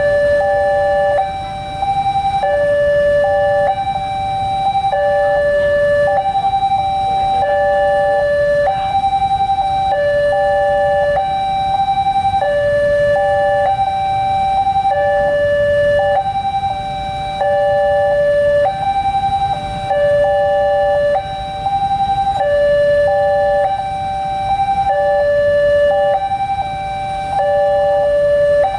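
Railroad level-crossing warning alarm sounding a continuous two-tone electronic signal, a higher and a lower tone alternating, a full cycle a little over a second, warning of an approaching train.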